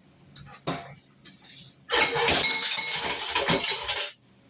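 Fried rice being stirred in a hot pan: a short clatter under a second in, then about two seconds of loud scraping and sizzling that stops abruptly.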